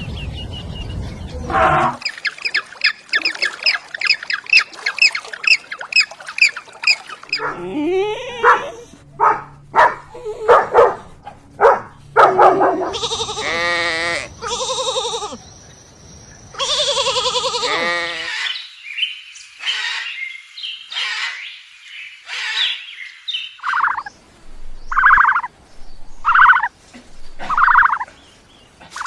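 A series of animal and bird calls. First a long run of quick, repeated chirps, then a string of varied pitched calls, then four short calls evenly spaced near the end.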